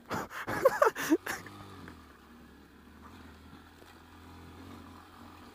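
Honda Grom's 125 cc single-cylinder engine revving up in quick rising sweeps, mixed with short bursts of noise in the first second or so. It then runs on at low, even revs with a steady low hum.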